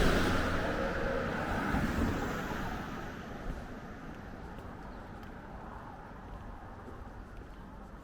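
A motor vehicle passing close by and fading away over the first few seconds, leaving a low steady street background.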